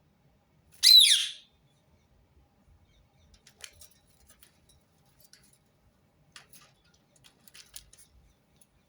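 Rose-ringed parakeet giving one loud call about a second in, a brief screech that slides down in pitch, followed by faint scattered clicks.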